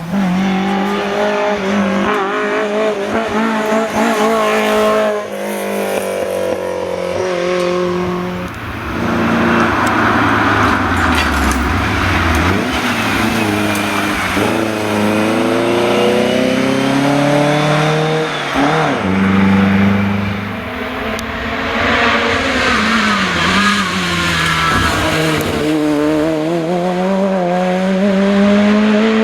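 Historic rally car engines at full throttle, revving up and dropping in pitch again and again through gear changes and lifts as the cars run through the stage.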